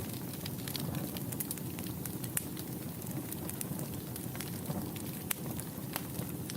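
Wood fire burning steadily in a fireplace, with a low rushing rumble of the flames and frequent sharp, irregular crackles and pops.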